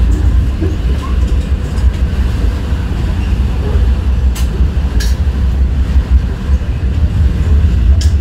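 Steady low rumble of a Caltrain gallery passenger cab car rolling along the rails, heard from the front of the car, with a few short clicks in the second half.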